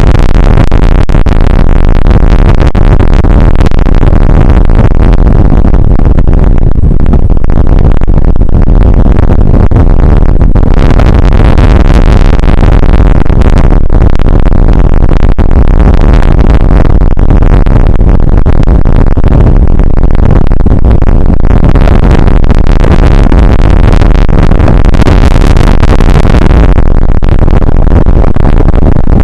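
Rain shower through an outdoor camera's overloaded microphone: a steady, heavily distorted rushing noise, strongest in the low end.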